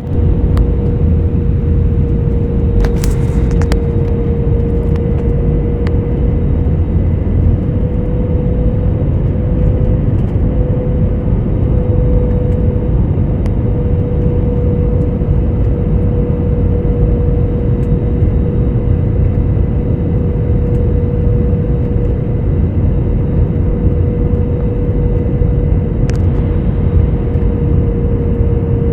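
Airliner cabin noise on the landing approach: a steady, loud rush of jet engines and airflow with a constant hum-tone running through it. A few faint clicks come about three seconds in and again near the end.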